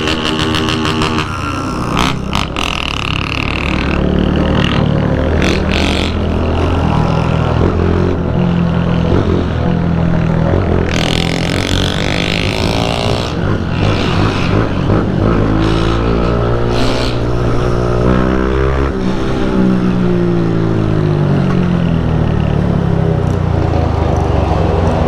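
Motorcycle engine running while riding in a convoy, its pitch rising and falling with throttle and gear changes, with other motorcycles around it. A few bursts of hissing noise come around the middle.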